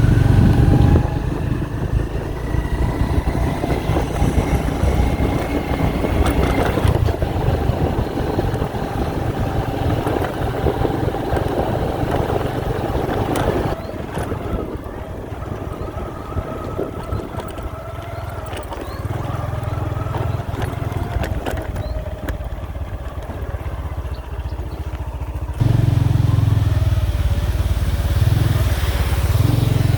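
A vehicle engine running while under way, its pitch drifting up and down, with a low rumble of wind on the microphone at times. The sound changes abruptly twice, about halfway and near the end.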